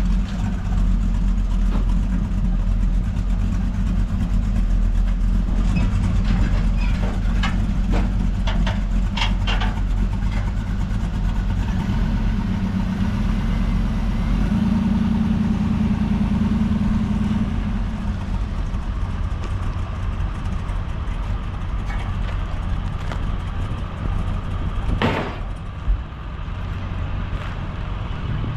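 Vehicle engine idling and running with a steady, deep low hum, a little stronger for a few seconds past the middle, and a single sharp knock about 25 seconds in.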